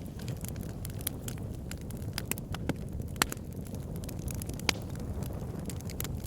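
Fireplace fire crackling: a steady low rumble of flame with scattered sharp pops and snaps at irregular intervals. Two pops a little over three seconds in and near the five-second mark stand out louder than the rest.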